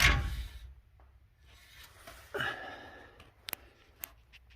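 A sudden knock, then scuffing and a few sharp light clicks, like handling noise and small metal parts being touched.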